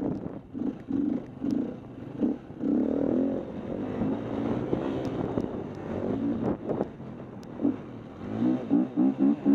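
KTM 250 EXC-F single-cylinder four-stroke dirt-bike engine under riding load, revving up and down as the throttle is opened and closed. It ends with a quick run of short throttle bursts.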